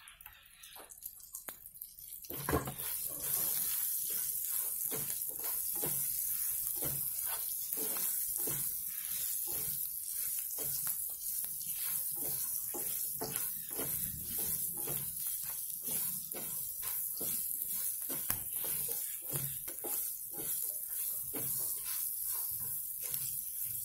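Sliced onions frying in hot oil in an iron kadai, a steady sizzle that gets louder about two and a half seconds in, with a wooden spatula scraping and stirring about twice a second.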